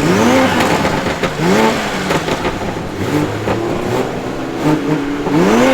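Car engine revved in short blips: three quick rises and falls in pitch, about a second in, near the start and near the end, with a steadier stretch of engine sound in between.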